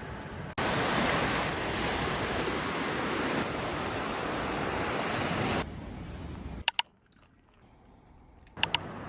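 Steady rush of ocean surf on a beach that starts and stops abruptly, followed by a much quieter stretch. A quick double click sounds twice near the end.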